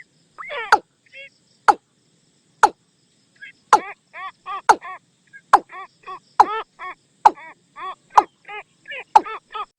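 Watercock calls: a rapid run of repeated hollow notes, about four to five a second, broken by sharp loud clicks roughly once a second.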